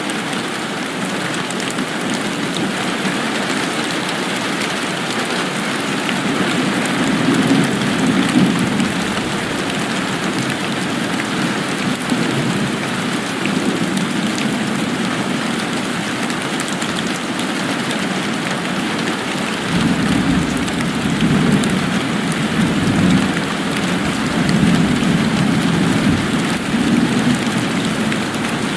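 Steady rain falling and pattering, a continuous even hiss. A low rumble swells up briefly about a quarter of the way in and again for the last third.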